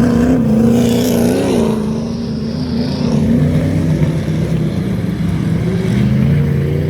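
Street-stock race car V8 engines running on the oval, their pitch rising and falling with the throttle. A high whine sweeps down in pitch about one to three seconds in as a car goes by.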